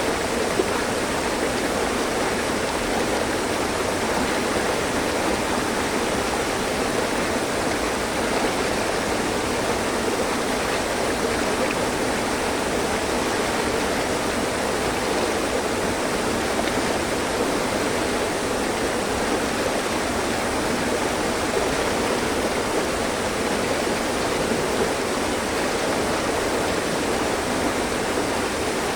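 Mountain stream running over rocks, a steady rushing and burbling of water with no breaks.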